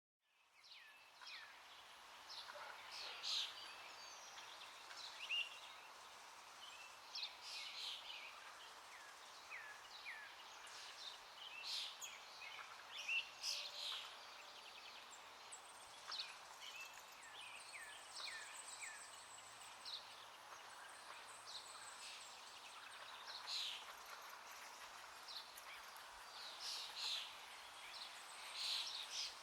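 Birds chirping and calling in short, scattered notes over a steady outdoor background hiss, fading in at the start.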